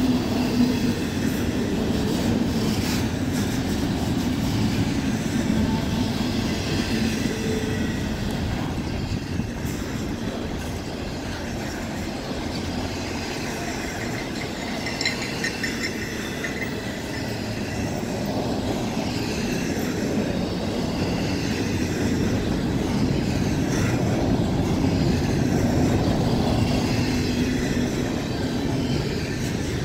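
Union Pacific double-stack container train rolling past: a steady rumble of steel wheels on the rails, with high squealing tones coming and going.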